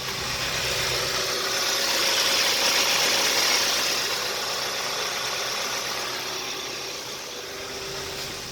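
The four-cylinder engine of a 2014 Hyundai Sonata with 94,000 miles running on an engine run test. Its noise swells over the first three or four seconds and then eases back.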